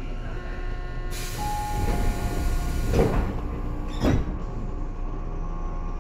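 Tobu 9000 series electric train heard from inside a car, running with several steady tones over the rumble. About a second in a hiss starts and lasts around two seconds, and there are two sharp knocks about a second apart.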